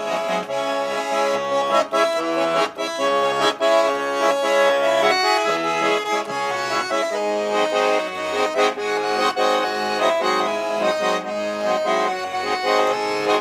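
A garmon, the Russian button accordion, playing an instrumental passage: a melody over sustained chords with a steady rhythmic accompaniment.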